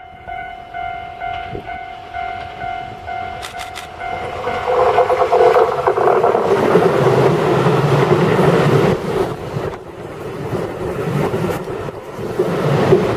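A Keihan 3000 series electric train passing over a level crossing. The crossing's warning bell rings steadily for the first few seconds, then the train's loud rushing run-by swells up about four seconds in and carries on to the end.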